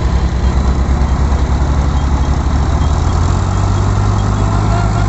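Tractor diesel engine running hard under load, pulling a heavily loaded sugarcane trolley. Its low pulsing rumble settles into a steadier, slightly higher hum about three seconds in.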